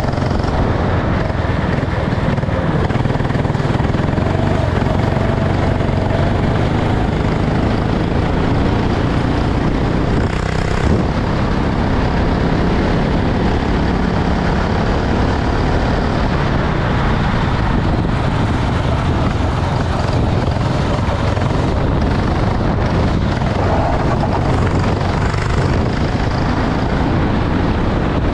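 Racing go-kart engine running steadily, mixed with a loud, dense continuous noise.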